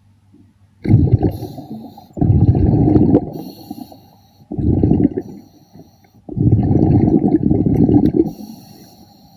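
A diver's exhaled breath bubbling out of the regulator underwater: four rumbling bursts of bubbles, one to two seconds each, a few seconds apart.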